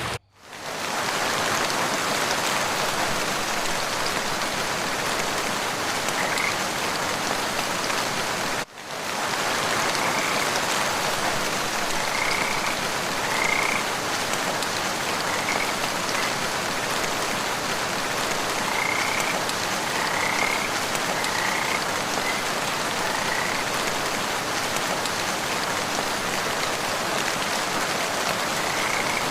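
Steady rainfall in a forest, with short high chirping calls scattered through the middle. The sound cuts out briefly right at the start and again about nine seconds in.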